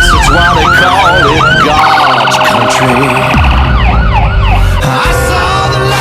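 Fire engine siren on yelp, sweeping up and down about three times a second, breaking into a rapid warble partway through and then yelping again, over the low running of the truck's engine. A steady blaring tone takes over near the end.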